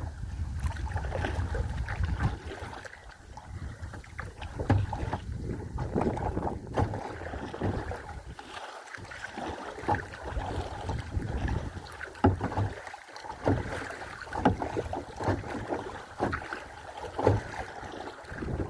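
Wind buffeting the microphone in gusts, with irregular splashing and lapping of water around a kayak.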